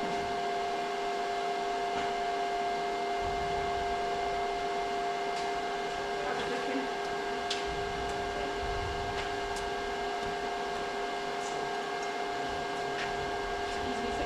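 A machine running steadily at constant speed, giving a continuous whine over an even hum, with a few faint ticks.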